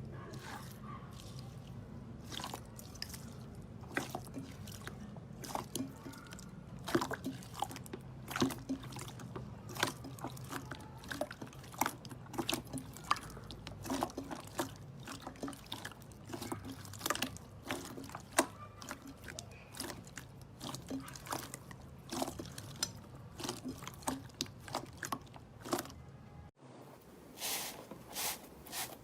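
Slime being squished and worked by hand, giving irregular wet, sticky clicks and small pops, several a second. A steady low hum underneath cuts off near the end.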